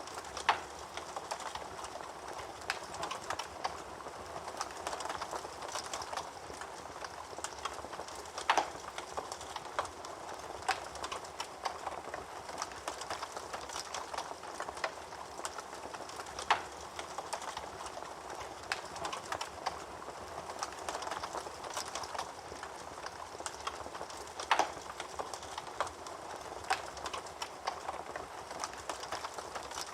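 Wood fire burning in a fireplace: a steady crackle with many small snaps, and a few louder sharp pops spaced several seconds apart.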